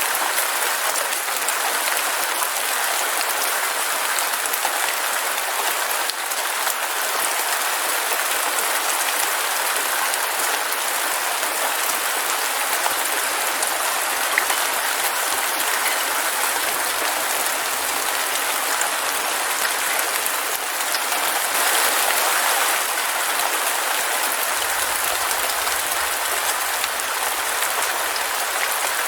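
Heavy rain falling steadily: a dense, even hiss of many drops on surfaces.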